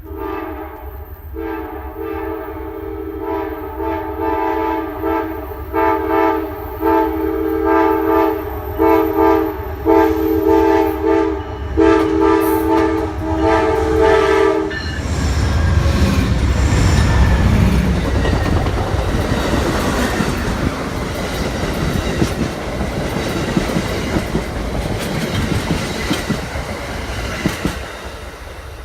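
Amtrak passenger train locomotive sounding its multi-chime air horn in a long run of short and long blasts for about fifteen seconds. The train then passes close by at slow speed, a loud rumble of engine and cars with wheels clattering over the rails, easing off near the end.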